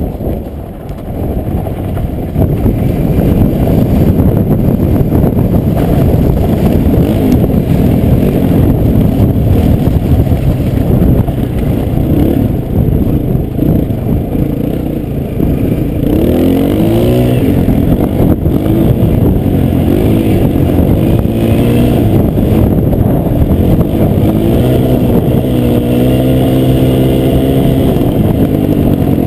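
Dirt bike engine running and revving, its pitch rising and falling repeatedly from about halfway through, over a loud low rumble.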